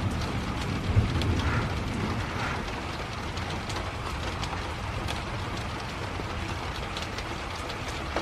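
Thunder rumbling overhead, with a sharp jolt about a second in, then gradually fading, over steady rain with drops ticking.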